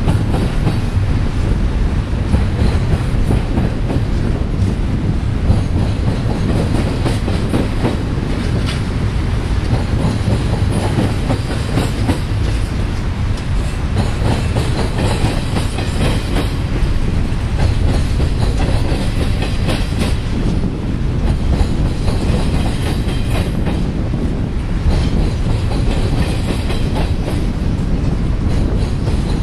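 Union Pacific double-stack container train's well cars rolling past: a steady rumble of freight wheels on rail with repeated wheel clicks.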